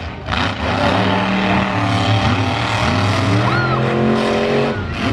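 Monster truck engine running loud and revving, its pitch climbing and dropping in several steps.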